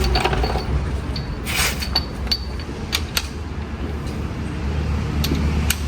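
Mechanical clicks and short creaking squeaks over a steady low rumble, with a brief rasping scrape about a second and a half in.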